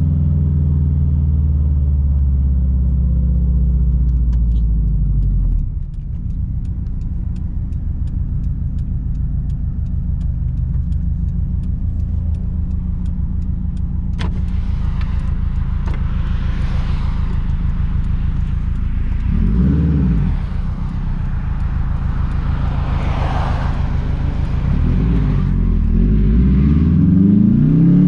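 Straight-piped 2006 Subaru WRX STI's turbocharged flat-four engine rumbling while driving, with the exhaust note dropping off about six seconds in, a brief rev rise and fall around twenty seconds, and the revs climbing near the end as it accelerates.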